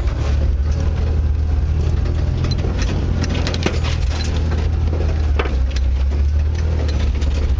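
Off-road race truck's engine idling steadily, heard from inside the cab, with scattered knocks and rattles.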